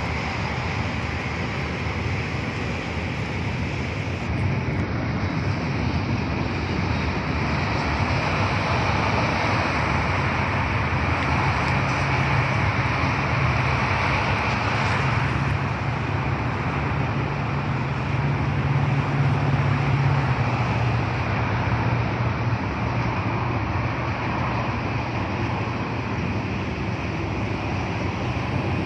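Train passing, a steady rumble and rush of wheels on rails, with a low drone that grows stronger from about ten seconds in until about twenty seconds in.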